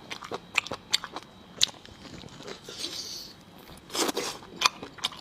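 Close-miked eating: biting and chewing with sharp wet mouth clicks scattered throughout and a louder cluster of chewing about four seconds in.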